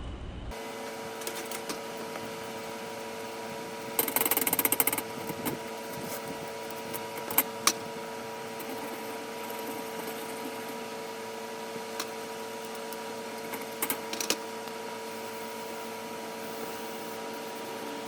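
A steady mechanical hum, with a brief loud clatter about four seconds in and a few sharp clicks and knocks later.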